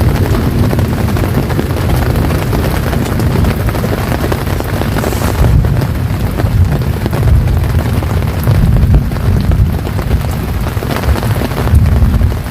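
Strong wind gusting, buffeting the microphone with a heavy low rumble that swells and falls, over a steady hiss of rain.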